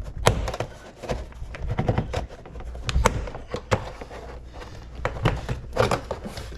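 A pry tool working a plastic car door trim panel loose, with irregular sharp clicks and knocks as the panel's push-in retaining clips are levered and popped from the metal door.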